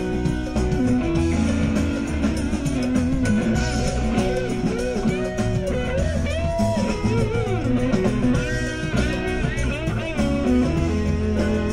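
A rock band playing live through an instrumental break, with no singing. A lead guitar plays notes that bend up and down over a steady bass line.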